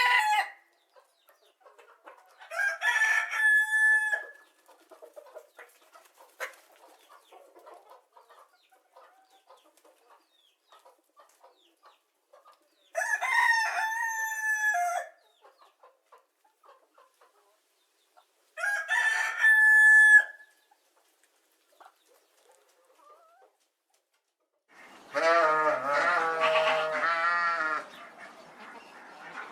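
A rooster crowing three times, each crow ending in a long held note, with long pauses between. Near the end a different animal gives a wavering bleat.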